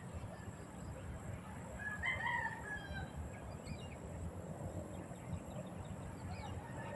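A single drawn-out bird call about two seconds in, rising then falling in pitch, over a steady low rumble.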